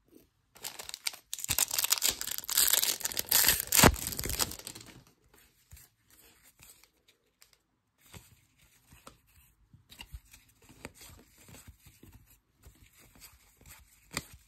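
A foil trading-card pack wrapper being torn open, a loud tearing and crinkling lasting about four seconds with a sharp rip near the end. After it come faint rustles and light clicks of the cards being handled.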